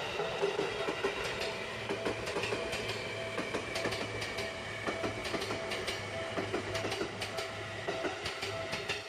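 Seibu Railway electric train running, wheels clicking over rail joints throughout, over a steady hum.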